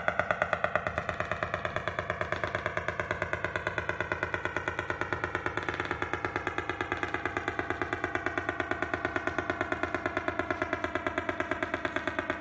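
Electronic tone generated from a line drawing: a rapid, even pulsing of about eight beats a second over a stack of tones that drift slowly in pitch.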